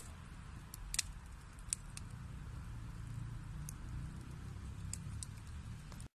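Wood fire burning in a fireplace: a low steady rumble of flames with a few sharp snaps and pops of burning wood, the loudest about a second in. The sound cuts out for a moment near the end.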